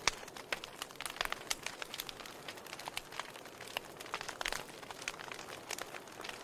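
Wood fire crackling in a fireplace: irregular sharp pops and snaps over a steady soft hiss, with a louder pop right at the start.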